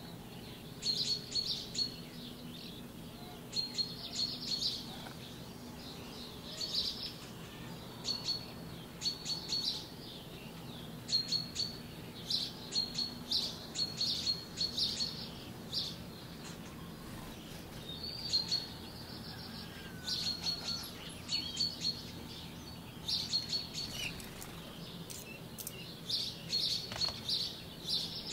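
Small birds chirping: clusters of quick, high-pitched chirps that come every second or two, over a faint, steady low hum.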